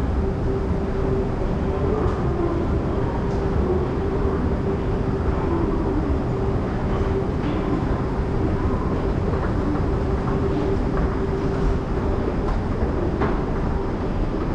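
Commuter train running at an underground station platform: a steady low rumble with a steady hum held throughout, and a few faint clicks.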